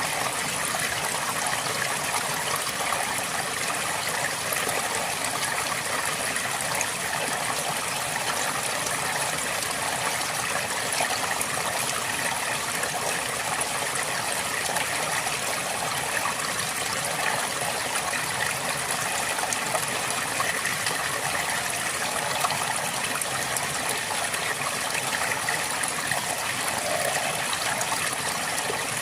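River water flowing over stones, a steady rushing and babbling with no pauses.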